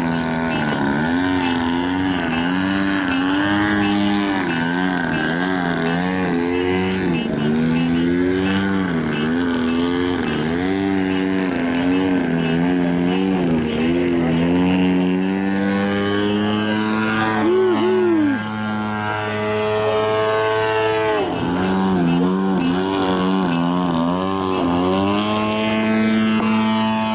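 Radio-controlled model airplane's piston engine in flight, its pitch rising and falling again and again as the plane manoeuvres and changes throttle, with a steadier stretch about two-thirds of the way through.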